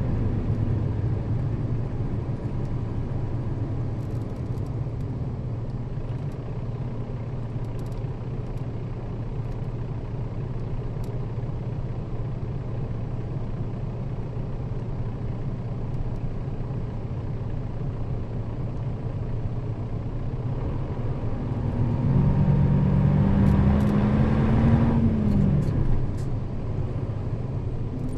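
Nissan Diesel KL-RA552RBN route bus's diesel engine running steadily as the bus drives. About 22 seconds in it gets louder with a rising engine pitch, then drops back about three seconds later.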